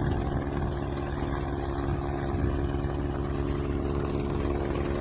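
An engine running steadily: a constant low drone with several steady hum tones over it, holding level throughout.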